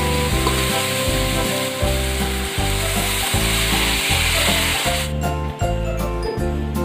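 Diced vegetables and hotdog sizzling in hot oil in a wok as they are stirred, over background music with a steady beat. The sizzling stops abruptly about five seconds in, leaving only the music.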